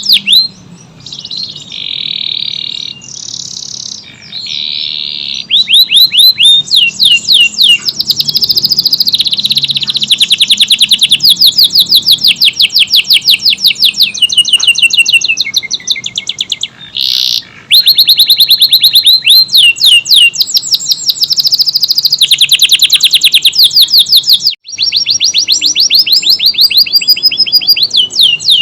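Canary of the Indonesian 'kenari AF' type in full song: long rapid-fire trills of high repeated notes, about a dozen a second. The song is softer for a few seconds near the start and breaks off briefly about three quarters through.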